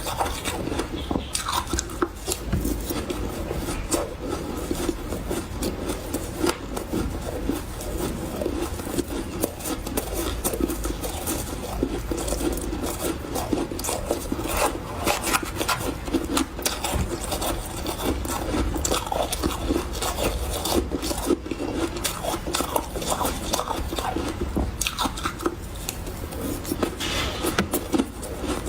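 A person chewing big bites of refrozen powdery ice, a dense unbroken run of soft crunches.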